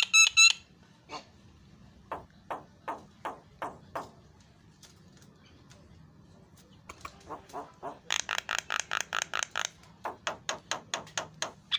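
Javan myna (jalak kebo) calling in runs of short repeated notes: a slower series of about three notes a second, then about eight seconds in a fast, louder run of about seven notes a second, followed by more spaced notes.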